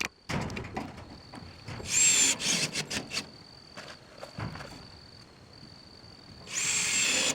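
Power screwdriver running in two bursts, about two seconds in and again near the end, with a high whine as it drives screws through metal siding sheets. A steady high insect trill sounds under it.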